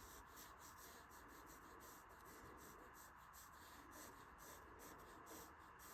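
Faint pencil strokes scratching on paper, in quick irregular runs, while a drawing is sketched in loosely.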